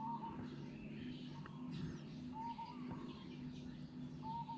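Faint bird calls: a short whistled note repeated about every two seconds, over a low steady hum.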